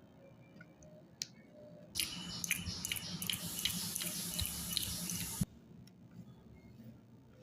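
Close-miked wet, sticky sounds of jelly candy being chewed, with many small clicks. They start about two seconds in, run for about three and a half seconds and stop abruptly, with a single click just before.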